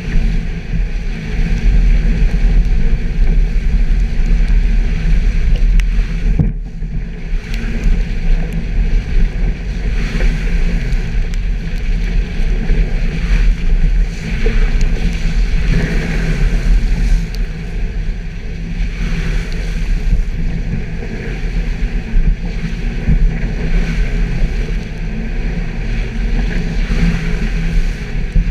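Suzuki Jimny's engine running steadily as it is driven off-road: a loud low drone that swells and eases, with rushing wind noise over it.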